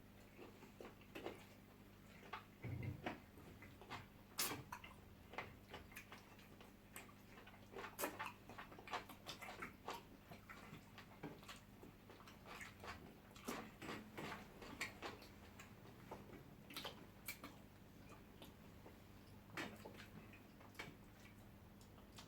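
Faint eating sounds: scattered, irregular clicks and smacks of people chewing and handling food, with no talking.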